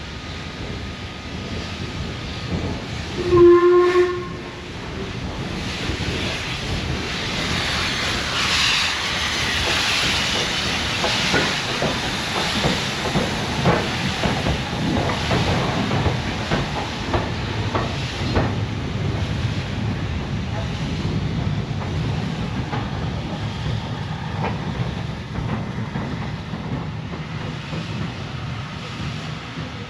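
A steam locomotive sounds one short whistle blast about three seconds in. The locomotive then moves through the station with a long hiss of steam and the clicking of its wheels over the rail joints.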